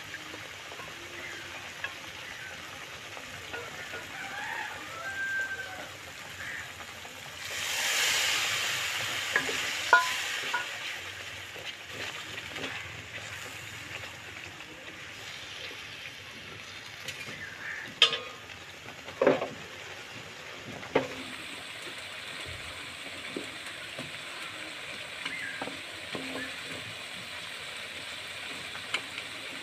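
Spiced curry paste sizzling in oil in a wok while a wooden spoon stirs and scrapes it. The sizzle swells loudly for a second or two about eight seconds in, and a few sharp knocks against the pan come later.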